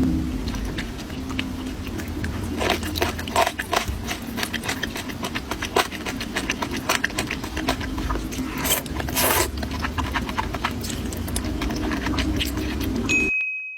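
Close-miked eating: chewing and mouth sounds made of many short crunchy clicks, over a steady low hum. Near the end the sound cuts off abruptly with a brief high beep.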